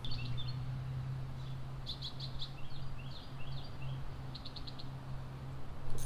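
Small songbirds chirping, with short repeated notes and a couple of quick trills, over a steady low hum. A brief sharp noise near the end.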